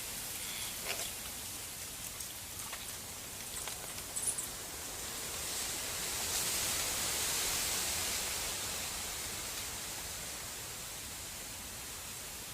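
Steady hiss of a snowstorm, wind-driven snow or sleet, swelling for a few seconds in the middle, with a few light knocks in the first four seconds.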